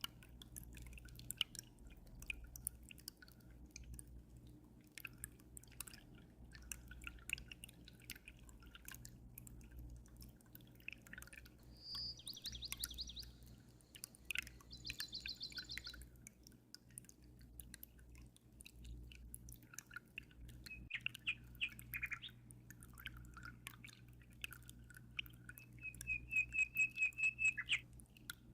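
Birds chirping in short rapid trills, the loudest near the end, over water dripping and trickling with a steady low hum beneath.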